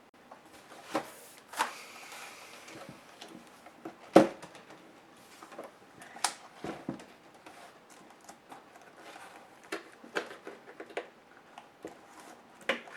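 Irregular clicks, taps and knocks of plastic and small metal parts being handled as a laptop is taken apart, with one louder knock about four seconds in.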